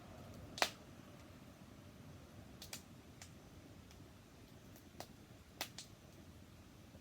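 Wood fire crackling: scattered sharp pops and snaps, the loudest about half a second in and a handful more after, over a faint steady hiss.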